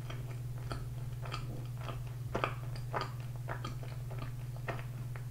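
A person chewing a mouthful of chewy butter condensed-milk bread with the mouth closed: soft, irregular wet clicks and smacks over a faint steady low hum.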